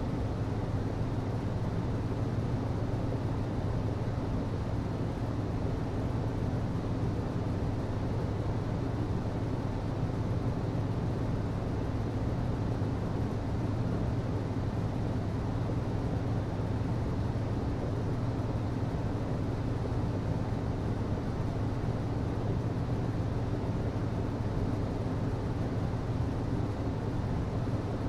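HVAC system running steadily: a constant rush of air with a low hum.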